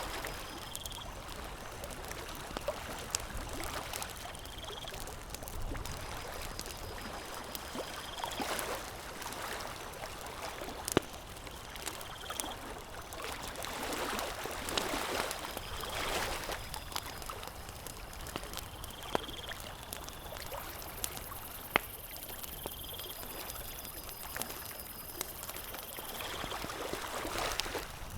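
Campfire crackling, a steady hiss broken by scattered sharp pops, swelling louder a few times. A short high call repeats every few seconds behind it.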